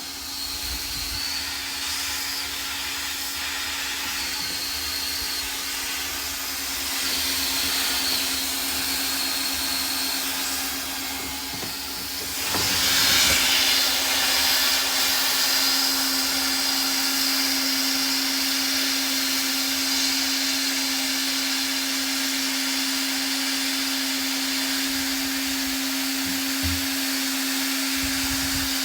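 Hot-air plastic welding gun blowing: a steady hiss of air over a constant motor hum, growing louder about twelve seconds in.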